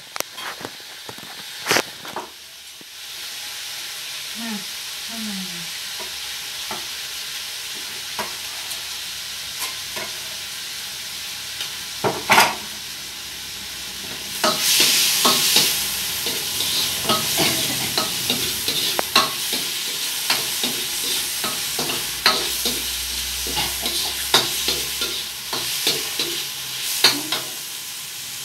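Pork sizzling as it is stir-fried in a wok over a gas burner, with a spatula scraping and knocking against the pan many times. The sizzle gets louder about halfway through.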